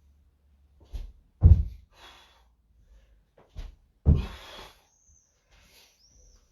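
Vertical jumps landing on a floor: two heavy thuds about two and a half seconds apart, each half a second after a lighter knock.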